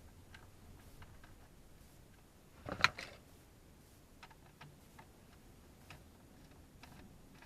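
Small scattered clicks and taps of screws being refitted into the HVAC control unit and dash panel with a screwdriver, with one sharp louder knock about three seconds in.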